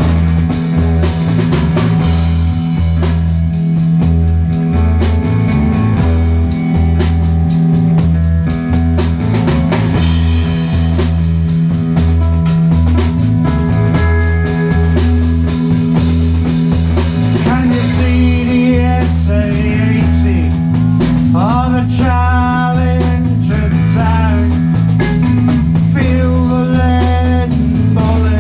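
Live rock band playing a song: drum kit with rimshots, bass guitar and electric guitar. In the second half a lead line bends up and down in pitch over the steady bass and drums.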